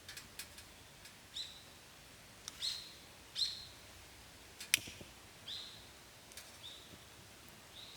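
A bird calling over and over, about six short calls, each a sharp note that swoops down and settles on a high pitch. A few sharp clicks fall between the calls, with a loud one about halfway through.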